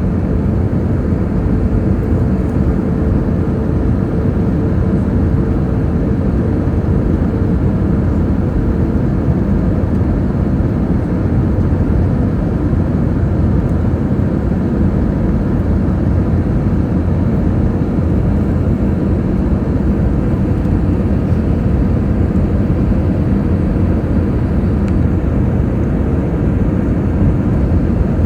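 Steady cabin noise of an Airbus airliner on approach to landing: an even rumble of engines and airflow, with a faint steady hum that fades out about nine seconds in.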